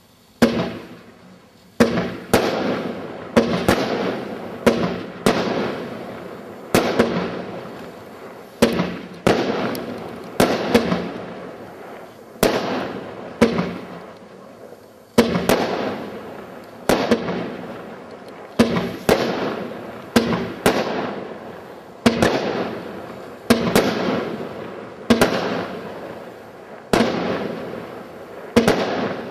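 Fireworks firing shot after shot, about one a second with a brief pause midway. Each shot is a sharp report that trails off over about a second.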